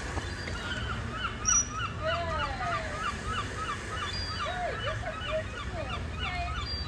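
A chorus of bird calls: many short chirps repeated several times a second, mixed with a few longer falling calls.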